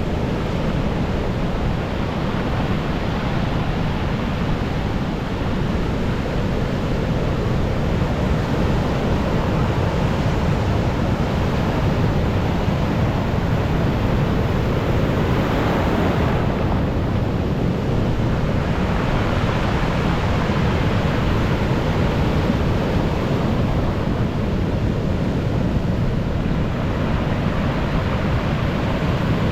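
Rough storm surf breaking and washing up the shore in a continuous roar, with wind on the microphone; one wave surges louder about halfway through.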